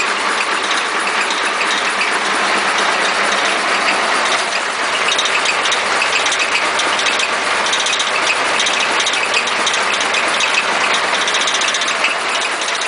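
Air compressor ticking over unloaded with its outlet pipe off, air just pumping in and out to cool it after hours of work: a steady, fast mechanical clatter.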